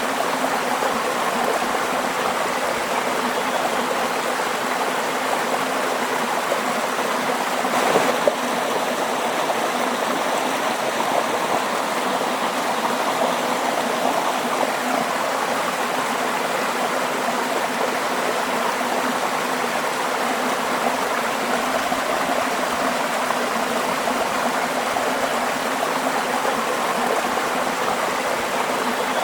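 Waterfall: a steady, even rush of falling water, with one brief louder splash about eight seconds in.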